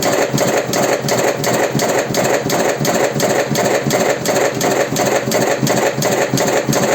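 Automatic electric cigarette-rolling machine running, cycling with an even, rapid mechanical clatter of about three to four strokes a second.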